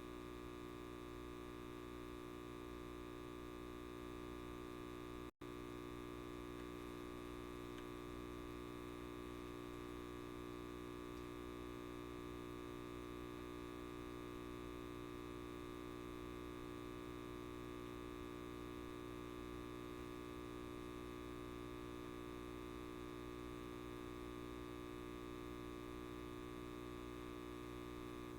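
Light bulb's electrical buzz: a steady hum made of many even tones. It cuts out for an instant about five seconds in.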